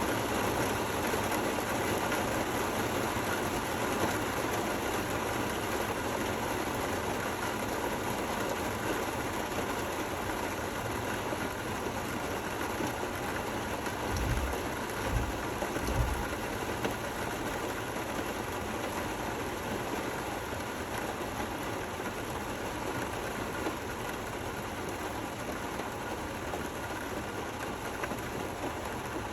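Steady rain falling, an even hiss with no breaks, with a few short low thumps about halfway through.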